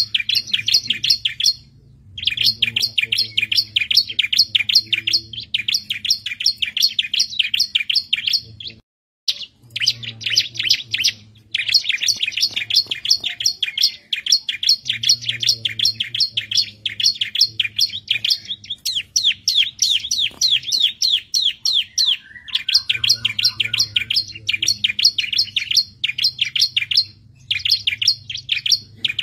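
Bar-winged prinia (ciblek) singing in fast runs of sharp, high chirps, repeated in bouts a few seconds long with short pauses between them.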